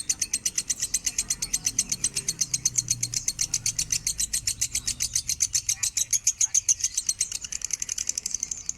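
Lovebird singing a long, unbroken chattering song: rapid high chips at about ten a second.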